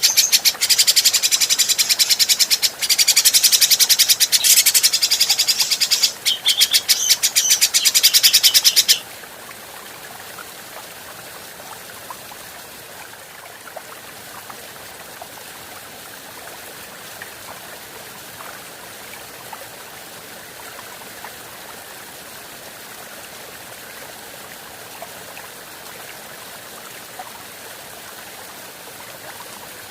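Grey-cheeked bulbul (cucak jenggot) singing a loud, rapid, chattering run of high notes that stops abruptly about nine seconds in. After that only a steady faint hiss remains, with a few small ticks.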